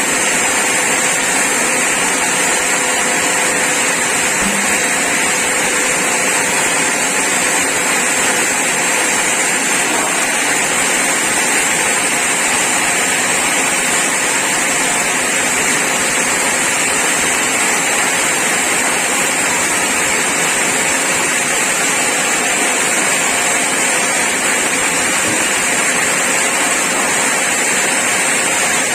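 Sawmill saw running steadily, an even, unbroken mechanical noise.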